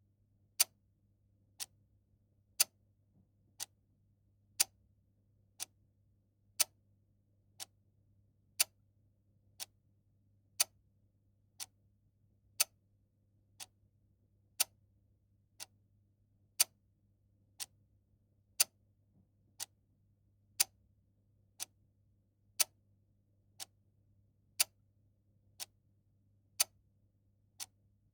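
Mechanical clock ticking steadily once a second, the ticks alternating louder and softer in a tick-tock pattern.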